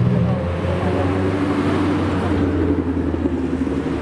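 Modified car's engine running at low revs, a steady low rumble.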